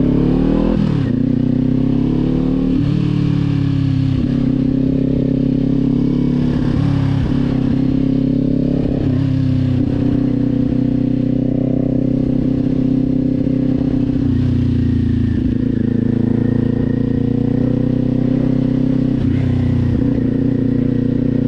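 Kawasaki Z400 parallel-twin engine and exhaust under way, its pitch climbing and then dropping sharply several times as the rider works the throttle and shifts gears.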